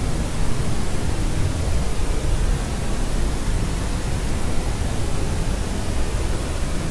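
Steady, unchanging white noise, heaviest in the low end, played as a sleep sound for a crying baby.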